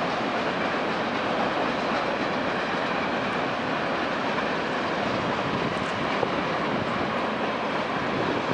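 Train passing close by, a steady, continuous noise of wheels running on the rails.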